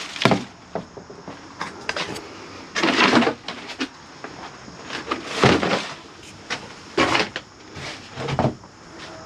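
Objects being shifted around in a cluttered shed: irregular clunks, knocks and scrapes as things are dragged and set down, with about five louder ones spread through.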